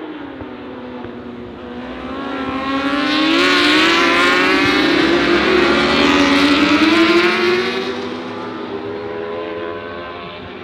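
Racing superbike engines at high revs coming past. The pitch rises as the bikes accelerate, loudest from about three to eight seconds in, then fading as they go away.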